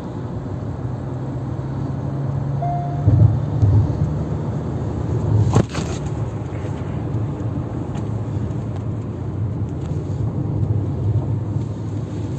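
Kia Seltos 1.5-litre turbo-diesel heard from inside the cabin while driving, pulling after a downshift from fifth in the automatic gearbox's manual mode, over steady tyre and road noise. A brief beep about two and a half seconds in, a few loud thumps around three seconds, and a sharp knock near six seconds.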